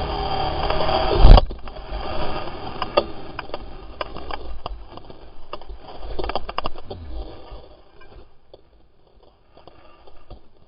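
Yamaha YZ250 two-stroke dirt bike engine running hard, then a loud impact about a second and a half in as the bike crashes, the engine cutting out at once. Scattered knocks and scrapes of the bike and rider tumbling follow, fading out.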